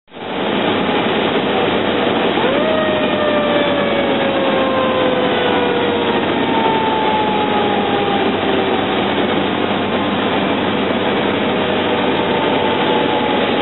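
Fire truck driving on an emergency response, its engine and road noise loud and steady. A siren tone rises sharply about two and a half seconds in and then slowly falls.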